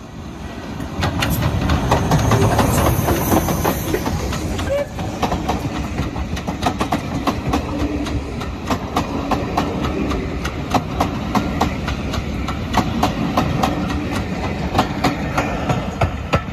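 A train running past on jointed track: the rumble swells over the first two seconds, then carries on steadily with a long run of sharp wheel clicks over the rail joints.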